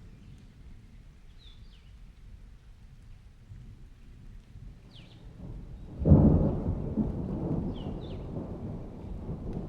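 Thunderstorm with rain: low distant thunder rumbling, then a loud clap about six seconds in that rolls on and fades. Faint short squeaks recur every few seconds, the swing's chains creaking as it sways.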